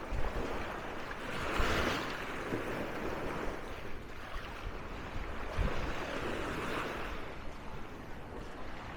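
Sea waves washing onto a sandy beach, the surf swelling and fading every couple of seconds, with wind gusting on the microphone now and then.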